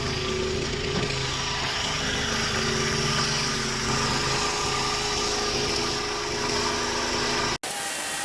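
Engine of a truck-mounted log splitter running steadily, with a noisy mechanical hum over a steady low drone. Near the end it cuts off abruptly to a quieter, different machine sound.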